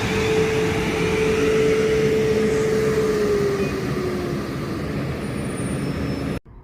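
A South Western Railway electric train running through the station: a loud steady rumble with a whine that drops slightly in pitch about three and a half seconds in. It cuts off suddenly near the end.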